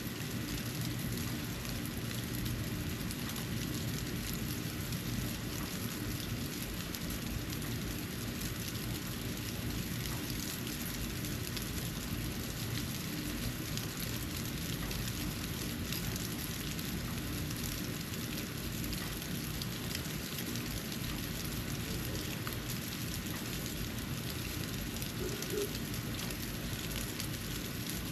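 Falling snow: a steady, even patter of many fine ticks as it lands on the porch, over a low steady rumble.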